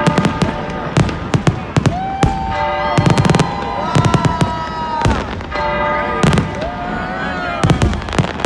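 Fireworks going off in a rapid, irregular string of sharp bangs and cracks. Held and gliding pitched tones sound over them.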